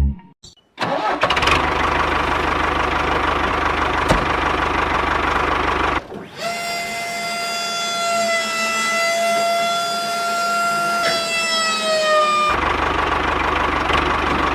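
A small motor running with a rough, even rumble, then a steady high whine from about six seconds in that sags in pitch and cuts off about six seconds later, after which the rumble returns.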